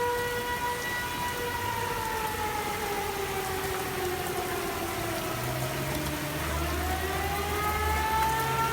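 Outdoor tornado warning siren wailing, its pitch sinking slowly and then climbing back up near the end.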